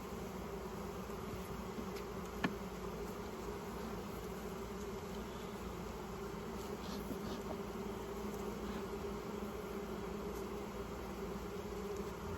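Honey bees buzzing around an open hive, a steady hum. A sharp click about two and a half seconds in, with a few faint ticks later.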